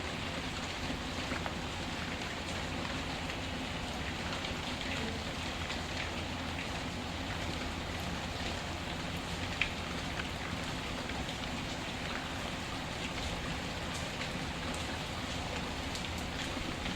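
Steady rain falling, with scattered small pops of a crackling wood fire and one sharper pop about halfway through.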